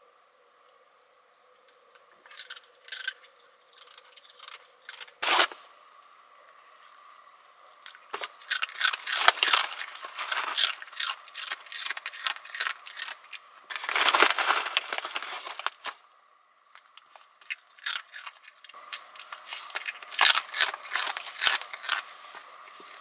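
Crinkling, rustling and tearing of packaging, with scattered clicks and light knocks from items being handled. These come in bursts, with the longest runs in the middle and near the end, over a faint steady background hiss.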